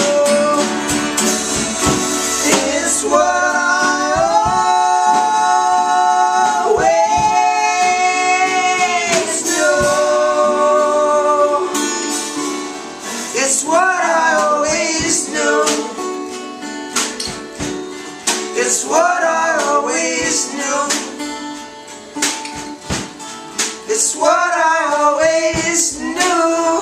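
A band playing live with strummed guitar and sung, held notes that slide in pitch. The music eases off somewhat in the second half.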